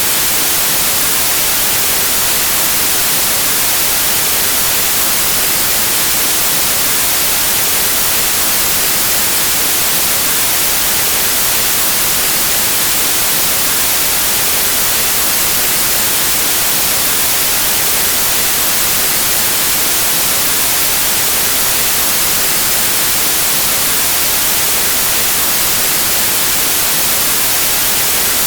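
Pure white noise: a steady, even static hiss that does not change.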